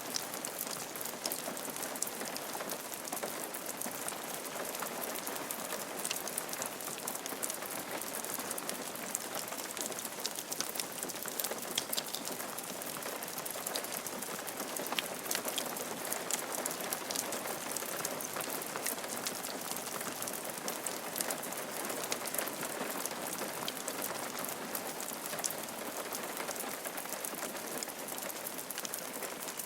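Steady rain falling on a roof, a continuous patter of many small drop ticks.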